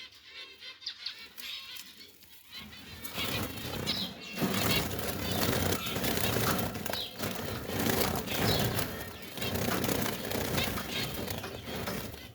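Zebra finches flapping and fluttering in a cage. A few short, high chirps sound in the quieter first two seconds, then louder, continuous wing-flapping and rustling starts about two and a half seconds in.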